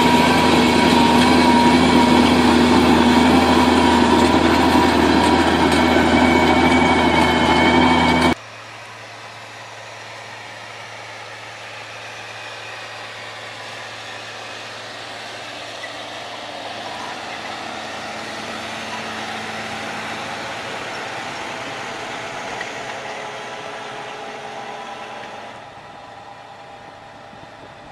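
A machine's engine running steadily at a constant pitch, then an abrupt cut about 8 seconds in to a much quieter, steady mechanical running noise that drops again near the end.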